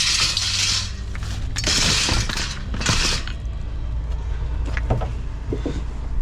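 Scrap being handled and loaded into a van: three scraping, rattling bursts in the first three seconds, then a few light knocks, over a steady low hum.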